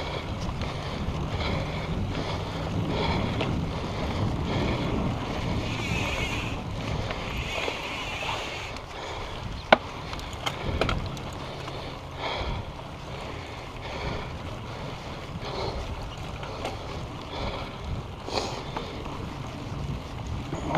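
Mountain bike rolling fast along a dirt singletrack trail: wind rushing over the microphone with tyre noise, scattered rattles and knocks from the bike, and one sharp knock near ten seconds in.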